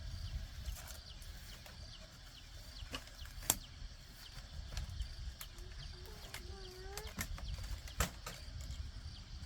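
Outdoor rural ambience: a low steady rumble, a faint high insect chirping, and scattered sharp knocks, the loudest about three and a half and eight seconds in. A short pitched animal call, perhaps fowl, sounds about six seconds in.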